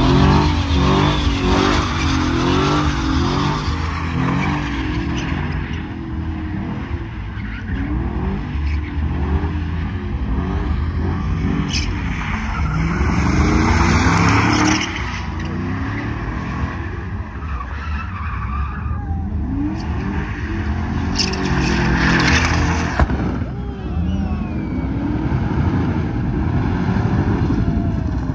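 Pickup truck engine revving hard and repeatedly through a burnout, rear tyres spinning and squealing. A couple of sharp cracks come about three quarters of the way through.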